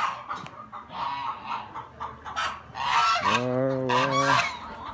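Geese honking: a string of short calls, then one long, drawn-out honk about three seconds in.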